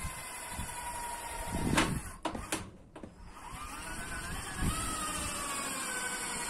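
A motor whining steadily and sinking slightly in pitch, then a few sharp clicks and a brief drop in level about two to three seconds in, after which the whine rises again and holds.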